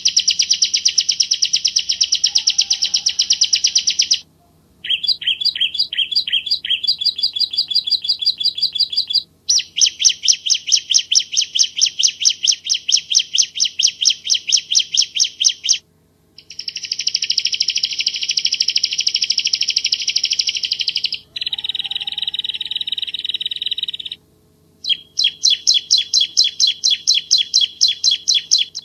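Bar-winged prinia (Javan ciblek) singing hard, in long bouts of fast, evenly repeated sharp high notes, with short pauses between bouts and the phrase changing from one bout to the next.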